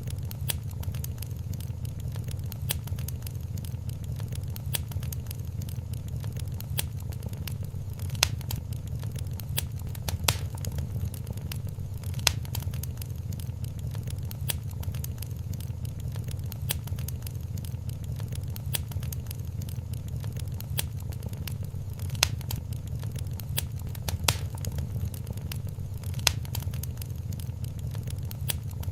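Wood fire crackling in a fireplace: dense small crackles with a louder pop every few seconds, over a steady low rumble.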